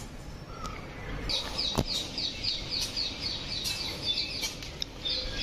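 A small bird chirping, a quick run of short, high, evenly spaced chirps at about four a second that starts about a second in. A single sharp click comes about two seconds in.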